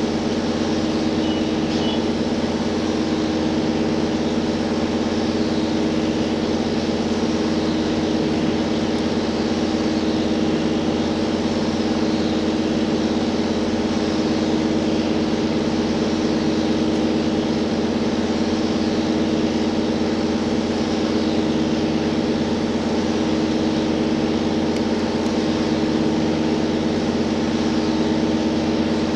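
Cabin running sound of a JR Hokkaido H100 electric-drive diesel railcar under way: the engine-generator set gives a steady hum under the rolling noise of wheels on rail. It stays even throughout.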